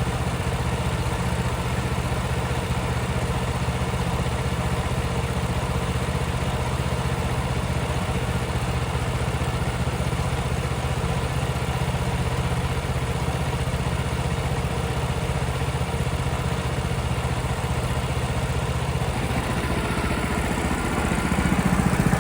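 Portable sawmill's small engine running at a steady speed. About 20 seconds in, the sound fills out and gets louder.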